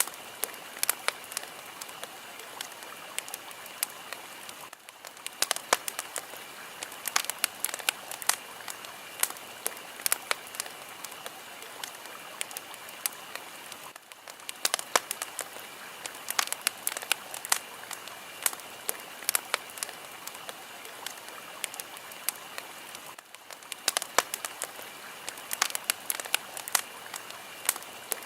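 Fire crackling: a steady hiss dense with sharp, irregular pops and snaps. The hiss dips briefly about every nine seconds.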